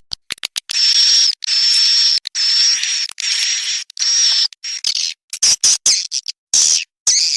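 Swiftlet call recording used as a lure sound in swiftlet farming: a run of five buzzy, hissing chirps of about half a second each, each carrying a thin high whistle. These give way a few seconds in to quick short chirps and clicks.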